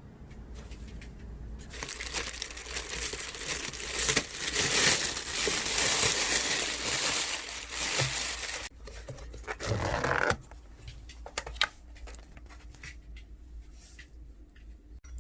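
Plastic packaging crinkling as it is handled, loud for several seconds in the middle, followed by a brief burst and a few light clicks.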